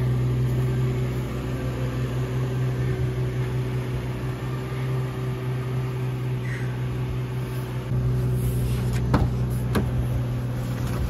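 Nissan Z car's engine idling with a steady hum. It steps up slightly about eight seconds in, followed by a couple of sharp clicks.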